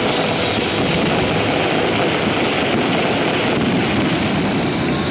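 Aerial fireworks in a dense barrage: many shell bursts and crackles running together into one continuous loud rumble.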